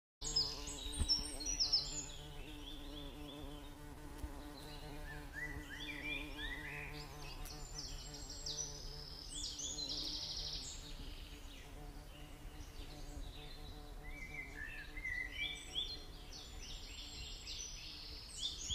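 Birds chirping in quick series of short notes and trills, over a steady low buzz.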